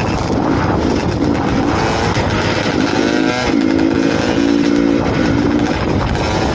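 Dirt bike engine running under throttle, its pitch rising and falling about three seconds in as the rider works the throttle.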